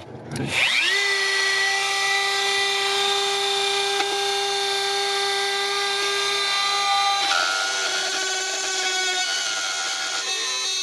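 Electric drill motor spinning up with a quick rising whine, then running steadily while boring a hole in the boat's cabin wall, its pitch dipping slightly as the bit takes load.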